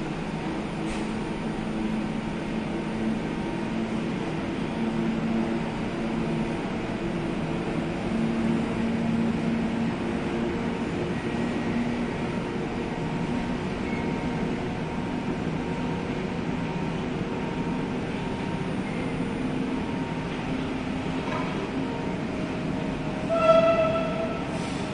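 Electric trains humming and rumbling steadily at a station platform, with wavering low tones. Near the end, a short, loud horn blast comes as an electric multiple unit pulls in.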